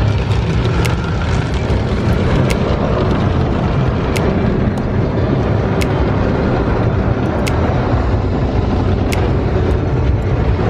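A car being driven, heard from inside: a steady, loud rumble of road and engine noise, with light sharp clicks recurring every second and a half or so.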